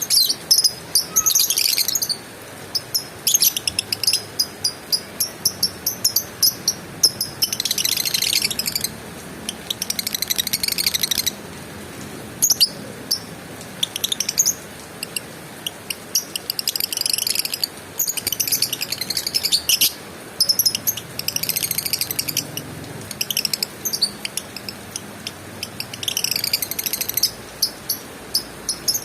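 Lovebird chattering in rapid, high-pitched trilled bursts, some short and some running a second or more, repeated again and again with short gaps.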